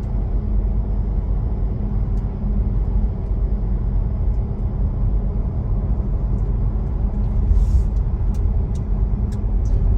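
Steady low rumble of tyres and road heard inside the cabin of a Tesla Model Y moving at speed. There is a faint steady hum but no engine note.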